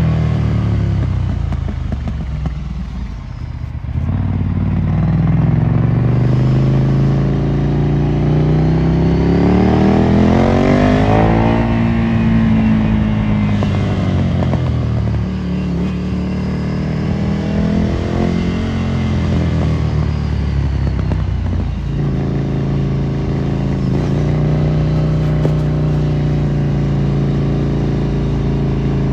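Ducati Monster 797's air-cooled V-twin through a Termignoni exhaust under way, the revs dipping off throttle, then climbing hard and dropping sharply about halfway through as it shifts. It rises and falls again, then settles to a steadier note for the last few seconds.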